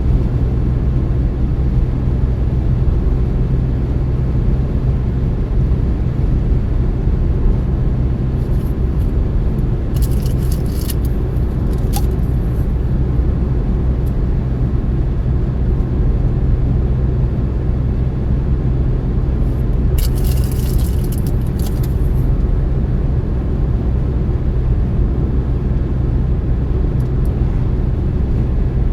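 Car driving at steady speed: a constant low engine and road drone, with two brief hissy swells, about a third of the way through and again about two-thirds through.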